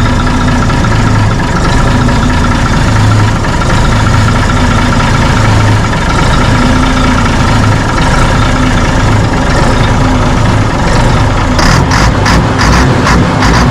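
Diesel engine idling steadily, warming up, with a low throb that pulses about once a second. About two seconds before the end, a quick run of sharp knocks sets in, about three or four a second.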